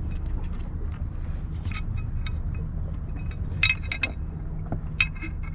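Small metallic clinks and taps from hand tools working on the outboard bracket's anode and bonding-wire hardware, in scattered clusters over a steady low hum.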